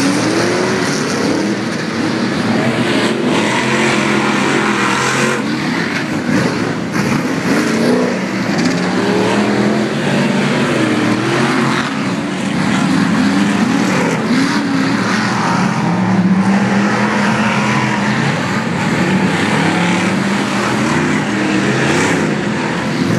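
Several Pro Light short-course off-road race trucks running together, their engines revving up and down with pitches rising and falling and overlapping.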